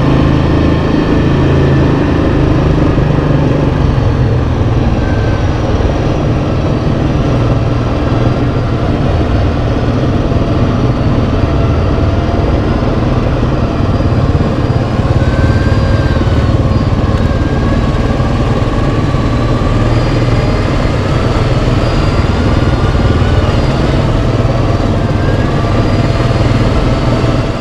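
Yamaha Kodiak 700 ATV's single-cylinder engine running steadily as the quad is ridden.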